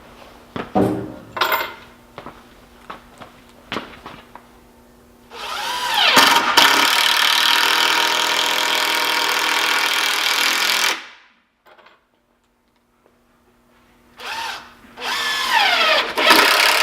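Power drill driving screws into wood. A few light knocks come first, then the drill spins up with a rising whine, runs steadily for about five seconds and cuts off suddenly. It spins up again near the end.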